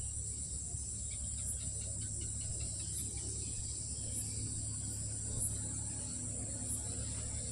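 Night insects, crickets, calling in a steady high-pitched chorus, over a low steady hum.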